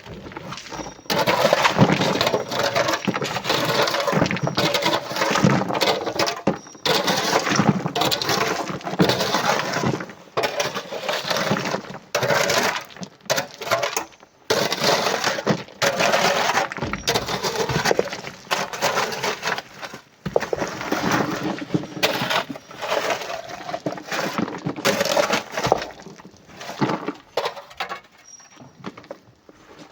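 Chunks of coral rock and sand crashing and clattering as they are loaded into a truck, a dense run of hard impacts that pauses briefly a few times and thins out near the end.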